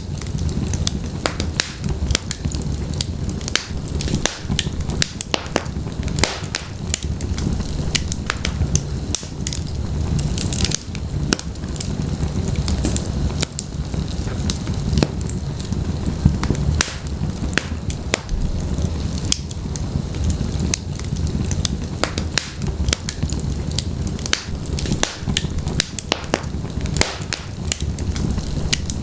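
Wood fire burning in a fireplace: a steady low rumble of flames with frequent sharp crackles and pops from the burning logs, scattered irregularly.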